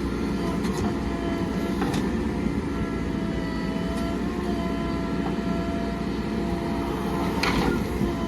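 JCB 3DX backhoe loader's diesel engine running steadily under work, with a thin steady whine over the engine note, a few light clicks, and a brief clatter near the end.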